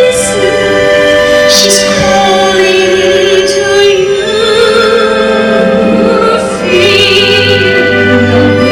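Operatic-style singing of long held notes over an orchestra, with a clear vibrato in the last couple of seconds.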